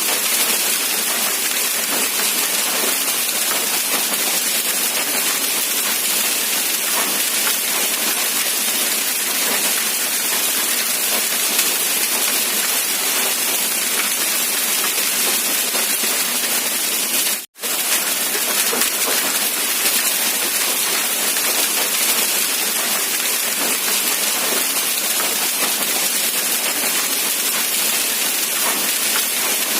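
Rain falling steadily in an even hiss with no thunder or distinct drops standing out. It cuts out for a split second about halfway through, then carries on unchanged.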